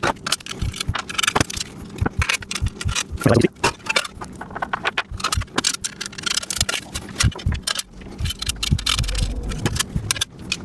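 Steel bolts, washers and nuts clinking and rattling as steel welding-table frame pieces are handled and bolted together: a rapid, irregular series of sharp metallic clicks and knocks, with a brief low rumble near the end.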